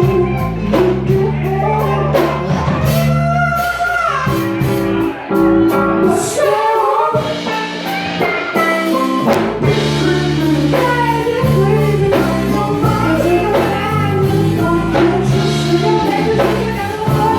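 A live rock band playing a song: singing over a drumbeat and a bass line that steps between notes.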